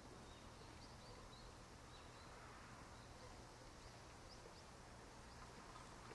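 Near silence: a quiet outdoor background hiss with faint, scattered short high chirps of small birds.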